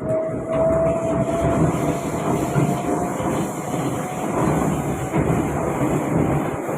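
Kawasaki-Sifang C151B electric train running, heard from inside the carriage: a steady rumble of wheels on track, with a motor whine that climbs slightly in pitch and fades out about three seconds in.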